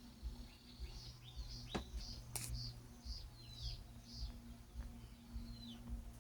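Chicks peeping: a string of short, high chirps that sweep downward, about two a second, over a low steady hum.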